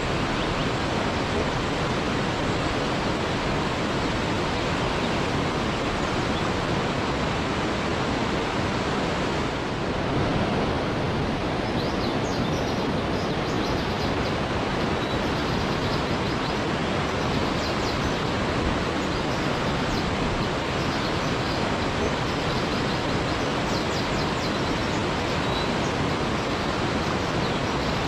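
Waterfall: a steady, even rush of falling water, with faint short high ticks over it in the second half.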